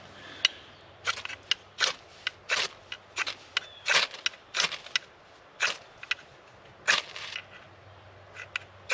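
Irregular series of short, sharp scrapes and snaps, about one or two a second, from hand work at a campfire lay of dry leaves and feather sticks while trying to light it.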